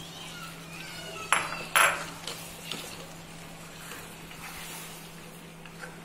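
Two sharp metal clanks about half a second apart, then a few lighter clinks: cookware knocking against the cooking pan as ground coconut paste is added to the chicken.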